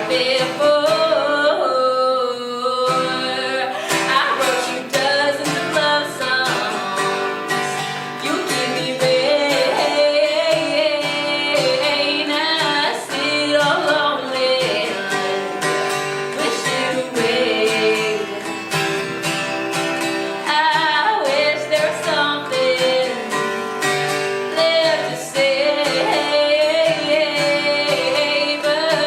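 A woman singing a song with acoustic guitar accompaniment, played live.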